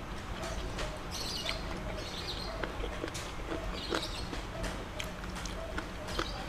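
Close-miked mouth sounds of eating by hand: wet chewing clicks and smacks, coming irregularly, with soft sticky finger sounds as the hand picks through a saucy dish of boneless chicken feet and rice.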